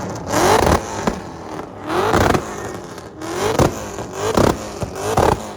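A car engine revved hard in repeated blips, each rising sharply in pitch and then dropping away, about five times, coming quicker near the end.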